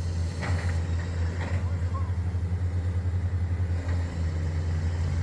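Heavy diesel machinery at a drilling site running steadily: a low engine drone with a slight even pulsing.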